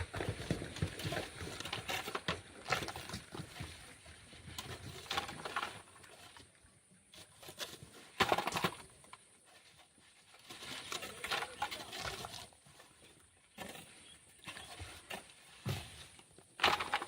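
Irregular scraping and dull knocks of black sand being dug and tossed by hand, with short pauses between strokes and a sharper knock near the end.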